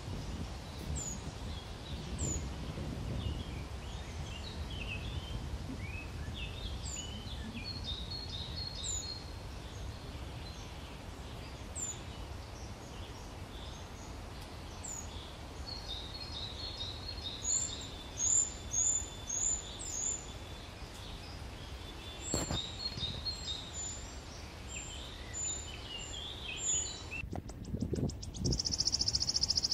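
Several birds chirping: repeated short high notes that drop in pitch, a quick run of them about eighteen seconds in, and other twittering lower down, over a steady low rumble. A sharp click about twenty-two seconds in, and a high steady buzz near the end.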